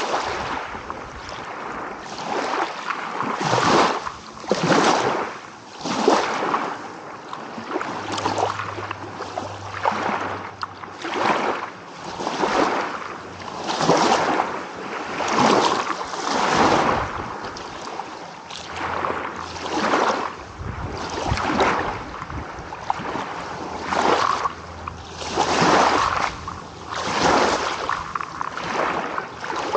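Small sea waves washing in and breaking on the shore in quick succession, a wash of water every second or two.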